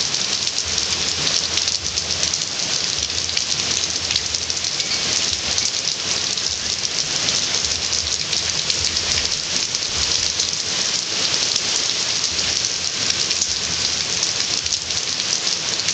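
Steady heavy rain falling and pattering on surfaces, a dense even hiss of many drops.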